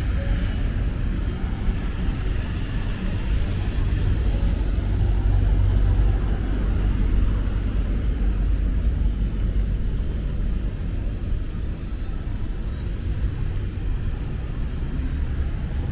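Steady low rumble of city street traffic with a faint hiss, swelling a little about five to seven seconds in.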